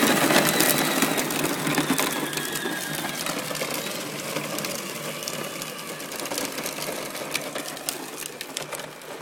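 Ride-on toy tractor driving, its electric drive motor and gearbox whining steadily under a scatter of clicks and crackles, growing fainter as it moves away.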